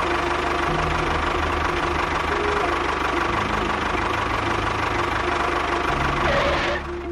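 A small motor running steadily with a fast rattle, stopping about a second before the end, over background music.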